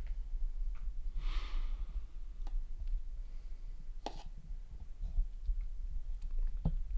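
A long breath out about a second in, then a few sharp, widely spaced metallic clicks, the loudest about four seconds in, as a tin can is worked open by hand.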